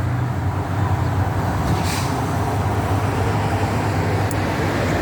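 Steady vehicle running noise: an even low rumble with a hiss over it, unchanging throughout.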